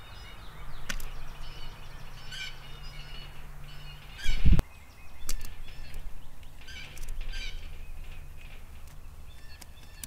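Backyard birds calling in short, scattered calls, over a faint low hum that stops about four seconds in. A single low thump comes about four and a half seconds in.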